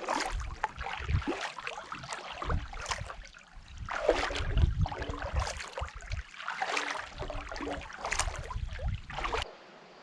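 Kayak paddle strokes splashing in the water, a steady rhythm of about one stroke every second and a half, cutting off suddenly just before the end.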